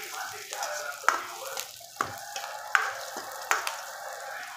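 Chopped onion, garlic and green chillies sizzling in hot oil in a blackened wok while a metal ladle stirs them. The ladle scrapes and knocks against the pan four times, a little under a second apart.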